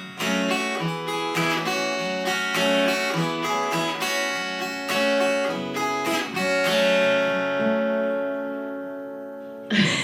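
Acoustic guitar played with quick plucked and strummed notes, then a final chord left to ring and slowly fade over the last few seconds.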